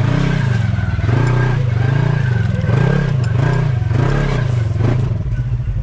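Polaris RZR side-by-side engine revving in repeated throttle pulses, rising and falling about once a second as it works to climb a rock ledge. It drops back to a lower, steady run near the end.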